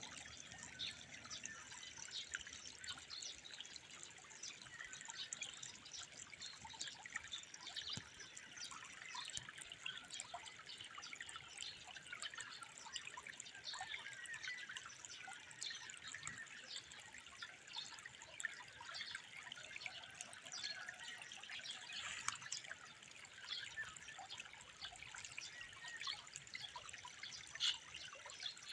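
Faint trickling water: a steady run of small splashes and drips.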